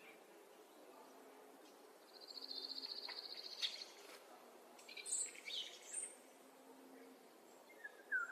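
Songbirds singing: a fast trill of rapidly repeated high notes lasting about a second and a half, about two seconds in, then several scattered high chirps and whistles, over a faint outdoor hiss.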